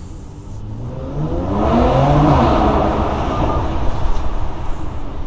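2019 Mercedes-AMG C43's twin-turbo V6 through its AMG performance exhaust, accelerating with the revs rising from about a second in, then crackling with pops and bangs as it comes off the throttle, in an underground car park.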